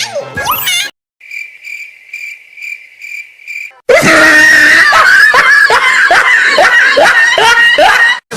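Meme sound effects: crickets chirping in an evenly spaced run, then, about four seconds in, a sudden very loud, distorted screaming with repeated falling cries that cuts off just before the end.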